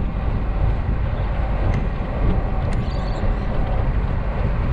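Steady road noise inside a moving car's cabin: a low tyre and engine rumble while driving.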